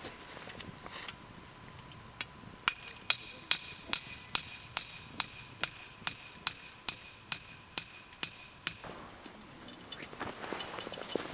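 Hammer blows on a metal tent stake, about fourteen in a steady rhythm of a little over two a second, each with a short high metallic ring; the blows start a few seconds in and stop well before the end.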